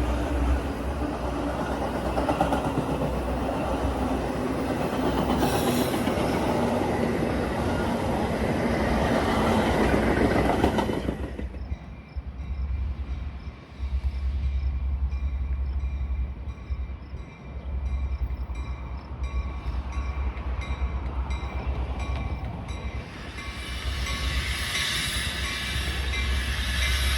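Train running on the rails, a dense steady rush of wheel and rail noise. About eleven seconds in it changes abruptly to a quieter low rumble, and the higher rail noise builds again near the end.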